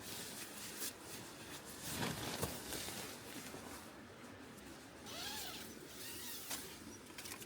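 Rustling and handling noises of camping gear, with a few sharp clicks and two short rising-and-falling squeaks near the end.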